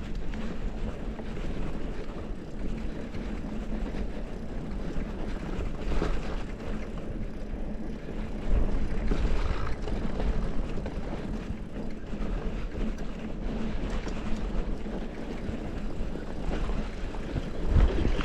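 Mountain bike running downhill on a rough dirt trail: wind buffeting the microphone, with tyre noise and scattered knocks and rattles from the bike over the ground.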